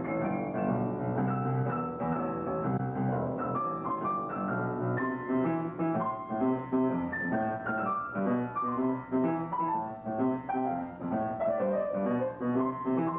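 Piano music, played as a flowing run of quick notes with falling phrases.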